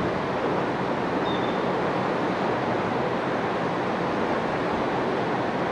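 Steady wash of ocean surf, mixed with wind.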